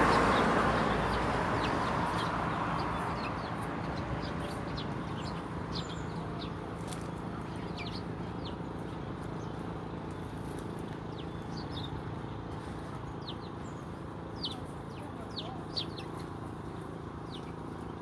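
A flock of Eurasian tree sparrows chirping, with many short, high chirps scattered throughout over a steady low background hum. A passing vehicle fades away over the first few seconds, and there are two sharp ticks near the end.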